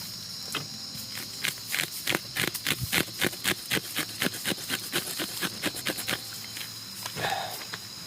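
Steady high-pitched hum of night insects, with a fast, even run of clicks, about five a second, for several seconds in the middle.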